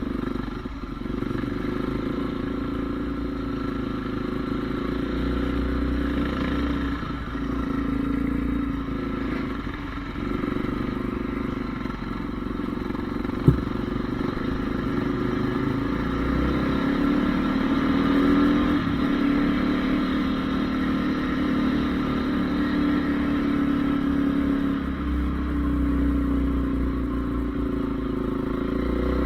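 Honda CRF450R single-cylinder four-stroke motocross engine running continuously, its revs rising and falling with the throttle. There is one sharp click about halfway.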